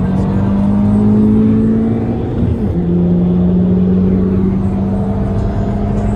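Car engine running while driving, with a steady drone whose pitch drops suddenly about two and a half seconds in and then slowly climbs.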